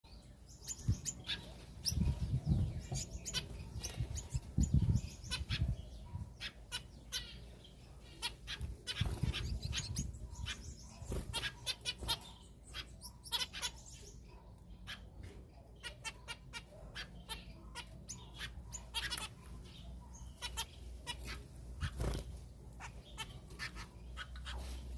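Caged small exotic birds chirping rapidly and repeatedly, with a few low, louder bursts of movement among the calls in the first half.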